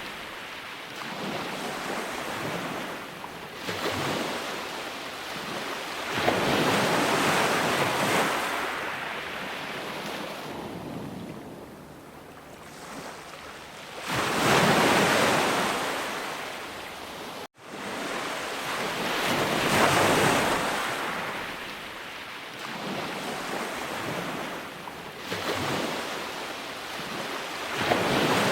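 Sea waves breaking and washing up on a shore, each surge swelling and then fading every several seconds. The sound cuts out for a split second about two-thirds of the way through.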